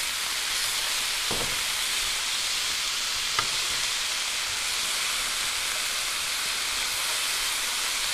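Pork and vegetables sizzling in an electric skillet, a steady hiss, as they are stirred with tongs. The tongs tap the pan twice, a faint knock just over a second in and a sharper click about three and a half seconds in.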